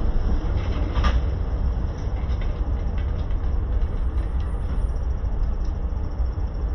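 Steady low rumble of a car on the road, heard through a dashcam, with a few faint clicks.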